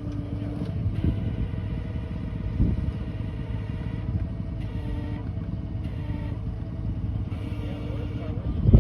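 Tow truck engine running steadily under load during the pull of a vehicle out through the ice. There is a sharp loud knock near the end.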